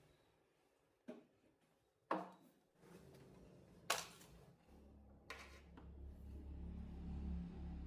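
A few sharp clicks and knocks of objects being handled, then a low steady hum comes in and slowly grows louder.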